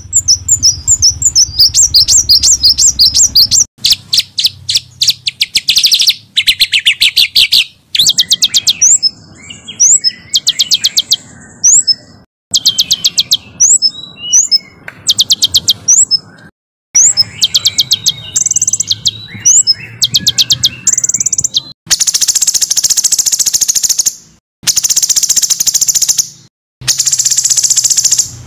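Small songbirds giving rapid-fire, harsh chattering calls and trills: fast runs of high repeated notes, several a second. They come in short bursts that cut off abruptly and change from one bird to the next, with a denser, hissy trill near the end.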